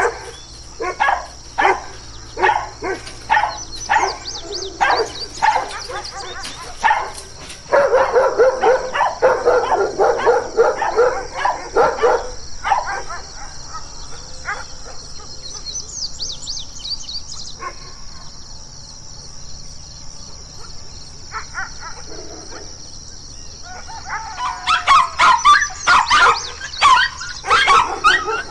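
Dogs barking, a run of separate dogs one after another. A German Shepherd barks repeatedly, about two barks a second, and then comes a dense burst of rapid barking. After a quieter stretch with only a few barks, a small black-and-tan dog yaps quickly and loudly near the end.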